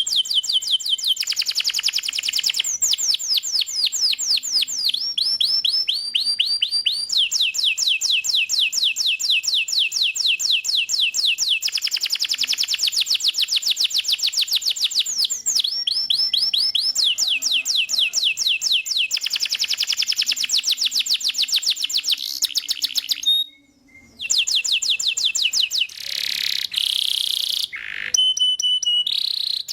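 Domestic canary singing nonstop in fast trills, each phrase a rapid run of one note repeated many times a second. It switches to a new phrase every second or few, with one short break about three quarters of the way through.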